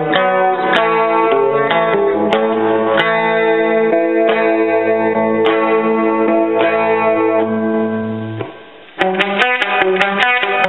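Electric guitar played clean through a Roland Jazz Chorus combo amp: chords ringing and changing every second or so, fading out about eight seconds in. After a short gap a quicker picked passage begins.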